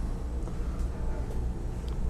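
Steady low hum with a faint even hiss above it, and one small click near the end.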